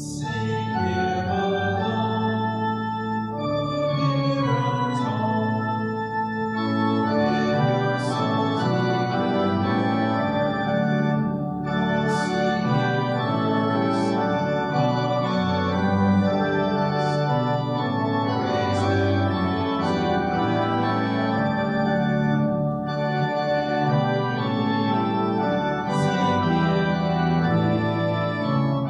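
Church organ playing full, sustained chords that change every second or two.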